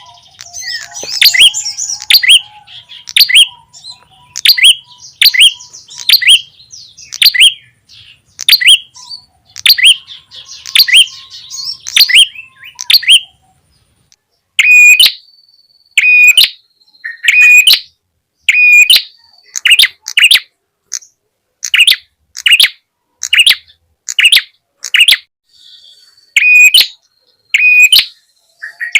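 Bird-lure recording of a prenjak tamu (red-headed prenjak) calling: sharp, high chirps repeated about once a second. After about halfway the notes turn clearer and more even, with a thin high whistle between them.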